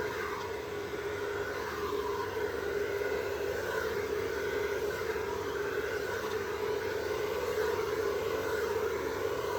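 A hand-held electric blower running steadily with a whirring hum, the kind used to push poured acrylic paint into a wave shape.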